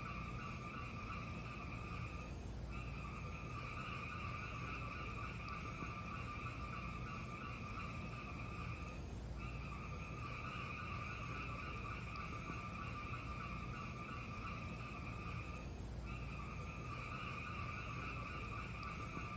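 Fireplace fire burning, with a low steady rumble and a high hiss that drops out for a moment about every six and a half seconds, as in a looped recording. Faint scattered crackles sound over it.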